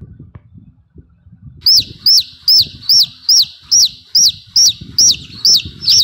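A bird calling a rapid series of about eleven loud, high-pitched notes, each sharply falling in pitch, at about two and a half notes a second. The series starts about one and a half seconds in, after a faint low rumble.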